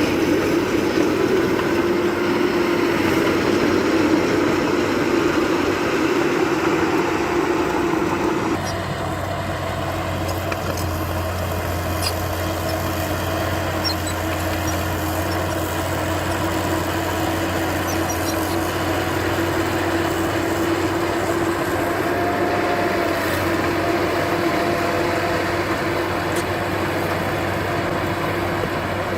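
Diesel engine of heavy earthmoving machinery running steadily. The sound changes abruptly about eight seconds in and runs on a little quieter.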